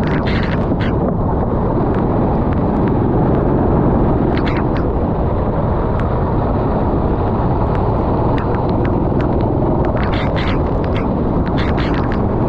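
Racing kart engine running steadily at speed, heard close up under a dense rumble of noise, with scattered sharp clicks in clusters near the start, about four seconds in and near the end.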